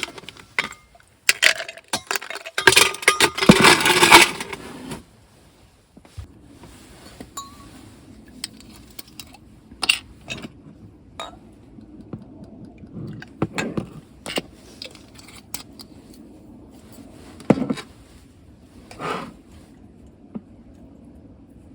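Clinking and clattering of small hard objects being handled, dense and loud for the first few seconds, then scattered light knocks and clicks.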